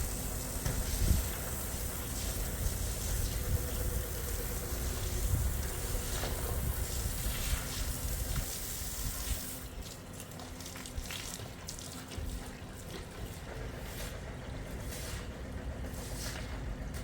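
Water trickling and splashing over a steady hiss; the hiss drops away about ten seconds in, leaving scattered splashes.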